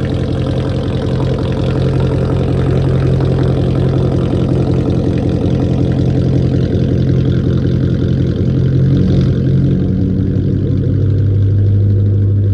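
Straight-piped Jaguar S-Type R's supercharged 4.2-litre V8 idling steadily shortly after a cold start, with a deep, loud exhaust note. The idle pitch dips slightly for a moment near the end.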